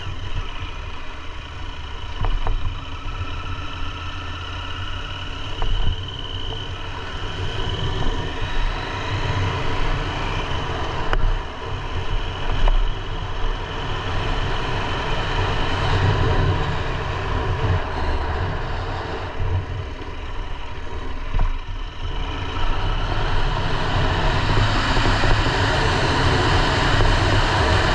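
KTM 890 Adventure R's parallel-twin engine running under way, mixed with wind rush on the camera microphone. The rush grows louder over the last several seconds.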